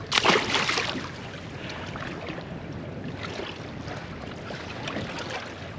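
Wind buffeting the microphone over water lapping around a small boat, with a brief louder rustle or knock just after the start.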